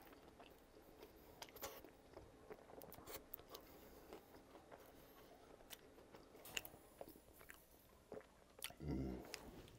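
Faint close-up chewing and crunching of crispy fried-onion crumbs, with scattered small mouth clicks and crackles. A brief, louder low sound comes near the end.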